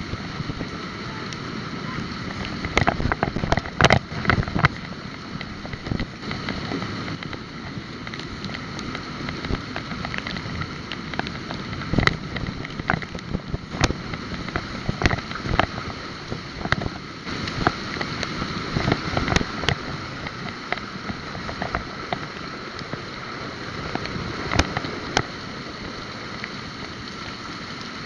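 Wind and road noise from a moving bike, with frequent knocks and rattles from bumps, busiest about three to five seconds in.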